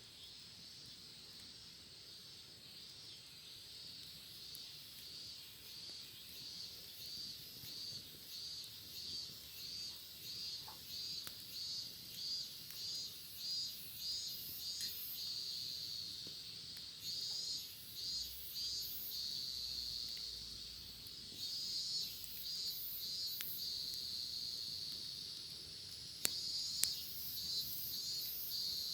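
Cicada singing: a high, buzzing song that pulses about twice a second, grows louder, and in places runs on as a steady buzz. Two sharp clicks sound near the end.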